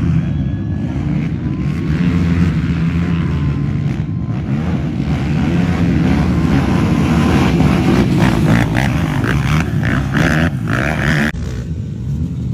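Small off-road racing engines running, their pitch wavering up and down as they rev, with some clattering a few seconds before the end.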